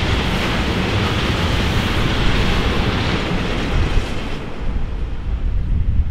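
Freight train of tank wagons rolling past close by: a steady rushing rumble of wheels on rail. About four seconds in the last wagon goes by and the noise drops away to a lower, fainter rumble.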